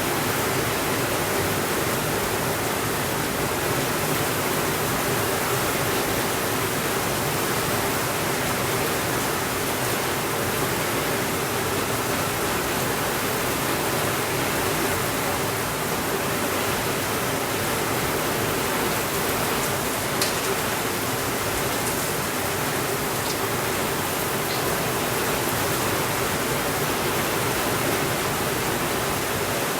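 Heavy rain falling steadily on a window, an even rushing hiss. A few faint fireplace crackles come about two-thirds of the way through.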